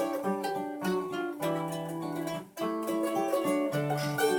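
Acoustic guitar playing the instrumental intro of a blues tune in the key of G, plucked notes ringing over chord changes.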